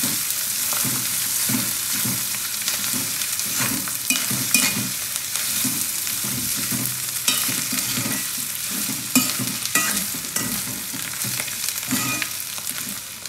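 Dried smoked catfish and onions sizzling steadily in hot oil in a cast-iron wok as they fry to a medium brown. A spatula and then a metal spoon stir and scrape against the pan, giving scattered clicks and scrapes over the sizzle.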